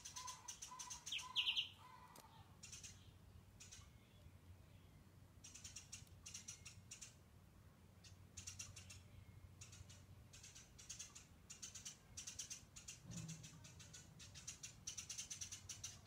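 Faint birdsong: a run of evenly spaced mid-pitched notes in the first two seconds, one louder, brief chirp about a second and a half in, and softer high chirps repeating in quick trains throughout.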